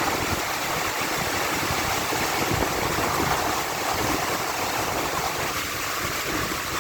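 Heavy rain pouring down in a steady hiss, with strong wind gusting and buffeting low underneath.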